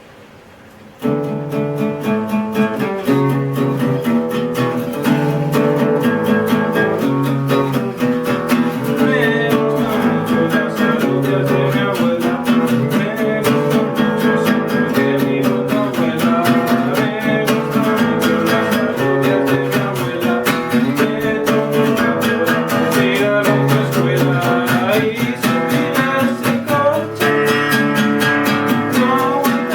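Acoustic guitar being strummed, starting suddenly about a second in and playing a run of chords in a steady rhythm.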